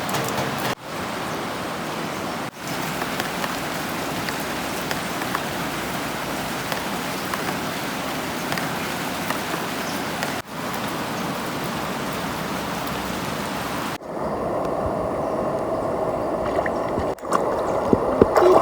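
Steady rain falling, broken by a few brief gaps. About three-quarters of the way through it changes to the lower, steady rush of a flowing river.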